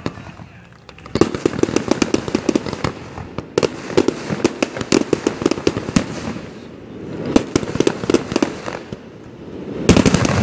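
Aerial firework shells bursting: a rapid run of sharp bangs and pops starting about a second in, coming in clusters with short lulls and thickening again near the end.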